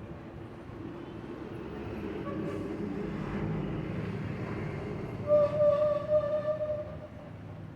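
A low rumble swells and fades like a passing vehicle, and just past the middle a steady horn-like tone sounds for about a second and a half, the loudest part.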